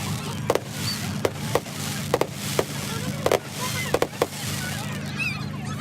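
Fireworks going off: an irregular run of sharp cracks and bangs that stops a little past four seconds in, over a steady low hum.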